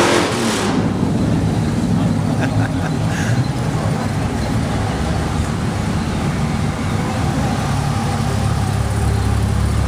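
Motor-car engines running on the road, a steady low rumble, with the noise of a car passing close fading away in the first second.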